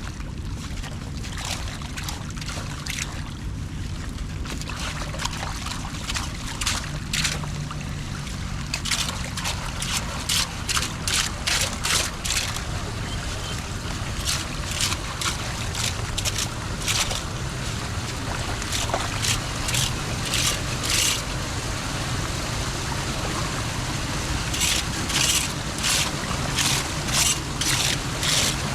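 Floodwater draining steadily through a cleared street drain, with clusters of short, sharp splashing sounds, thickest about ten to twelve seconds in and again near the end.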